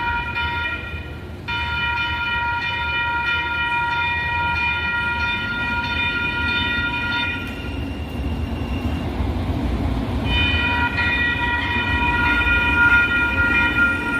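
Light rail train horn sounding: a short blast, then a long steady blast of about six seconds, then another long blast starting about ten seconds in. A low rail rumble builds under it as the train approaches.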